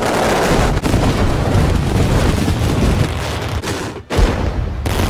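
Daytime fireworks going off in a rapid barrage: many overlapping blasts and cracks over a low rumble. There is a brief break about four seconds in.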